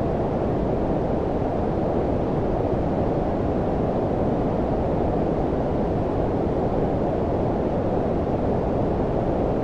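Steady low-frequency noise, a deep hiss like brown noise, with most of its weight below about 1 kHz and little above. It runs evenly, with no change in level or pitch.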